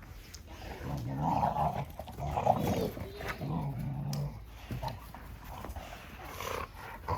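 Cane Corso dogs growling while play-fighting: a series of low growls, loudest in the first half, with fainter ones after.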